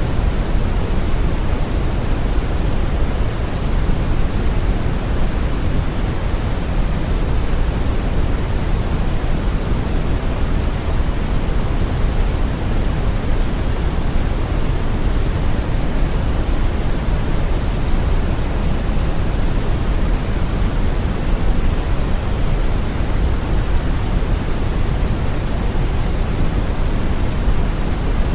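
Steady brown noise: a deep, even rushing hiss, heaviest in the bass, with no changes or events.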